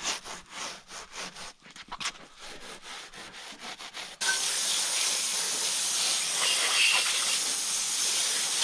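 A tire scrub brush scrubbing a tire in quick strokes, a few a second. About four seconds in it gives way abruptly to a garden hose spraying water, a loud steady hiss.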